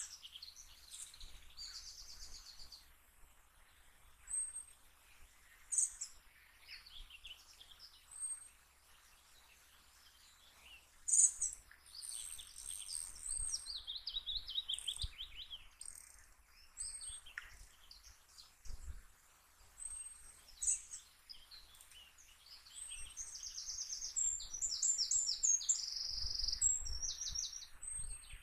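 Small songbirds singing and chirping in short high calls, with faster trilled phrases near the end.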